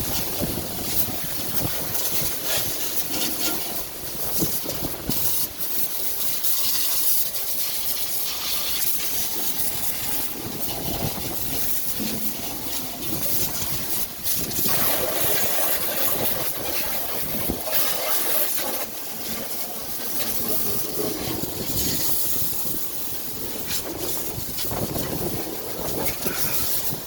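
High-pressure water jet spraying onto a vehicle during washing: a loud, steady hiss that swells and fades as the spray moves over the surface.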